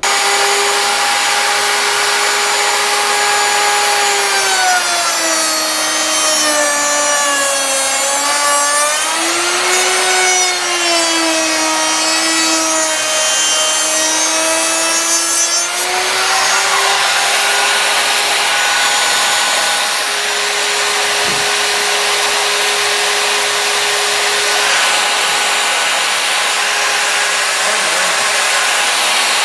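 Router motor running loud and steady, its pitch sagging and wandering as stiles are fed through the bit to mill the profiled edge, from about 4 seconds in to about 16 seconds. It then settles back to a steady pitch.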